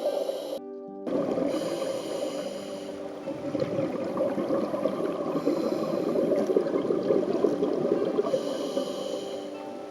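A scuba diver's regulator breathing heard underwater, muffled through the camera's waterproof housing. Exhaled bubbles rush and gurgle throughout, and a hiss of inhaling comes about every three seconds. There is a short break just before a second in.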